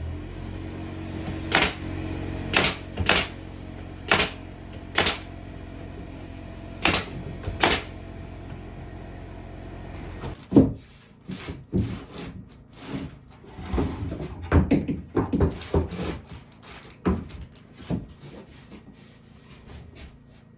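Woodworking sounds in a small room: a steady low motor hum with about seven sharp knocks spread over the first half. The hum stops about halfway, and irregular knocks and clatter of wood and tools follow.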